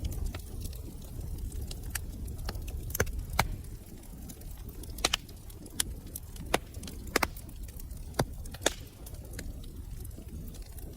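Wood fire crackling in a fireplace: a steady low rumble of burning with scattered sharp pops, several louder ones through the middle.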